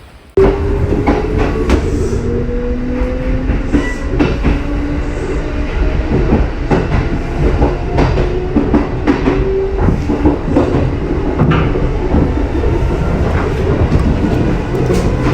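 Kintetsu 1240 series electric train running. Its motors whine, rising in pitch over the first few seconds and then holding steady, over a low rumble, while the wheels click repeatedly over rail joints. The sound starts abruptly about half a second in.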